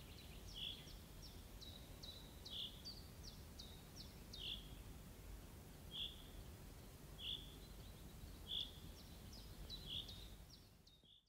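Faint birdsong: a short chirp repeated about once a second, with quick high falling notes between, over a low steady background rumble. It fades out at the very end.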